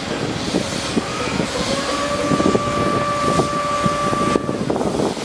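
Freight train running past and away, its wheels clattering over the rail joints. From about a second in, a steady high-pitched squeal joins, and it stops abruptly shortly before the end.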